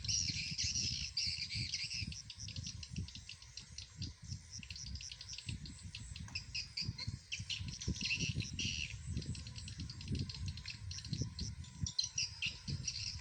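Swiftlets twittering continuously in dense, rapid chirps, likely mixed with the swiftlet-house lure speaker playing swiftlet calls to draw them in, over an irregular low rumble.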